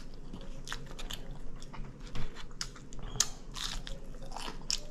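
A person chewing and biting into country-style ribs close to the microphone: irregular mouth clicks and bites a few times a second.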